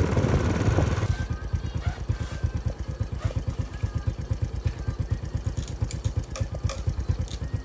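Motorbike engine idling with a low, rapid, even pulse. A louder rush of riding noise drops away about a second in.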